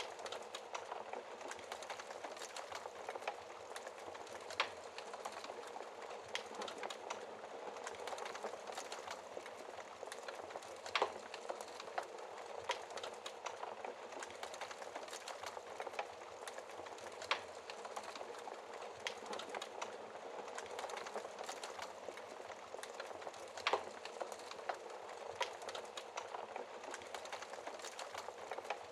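Wood fire crackling in a fireplace: a soft steady hiss with frequent small pops and clicks, and a few louder snaps.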